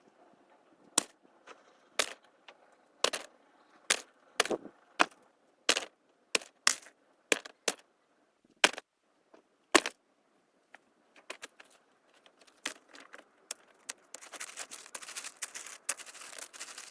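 A series of sharp knocks or snaps, roughly one a second for the first ten seconds, then a dense crackling rustle near the end.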